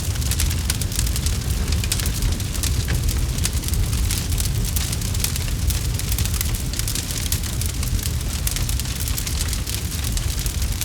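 Campfire burning, with dense crackles and pops over a steady low rumble.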